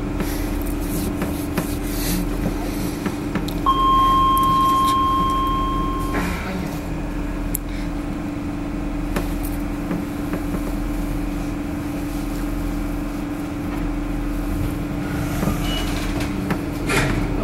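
Docklands Light Railway train heard from inside the carriage: a steady electric hum over a low rumble. About four seconds in, a single high tone sounds and is held for about two and a half seconds. A few sharp clicks and knocks come through later.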